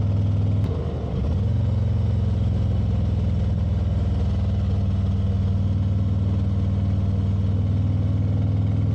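Motorcycle engine running steadily while riding, with a brief drop in the engine sound about a second in, as for a gear change or easing off the throttle, then steady again.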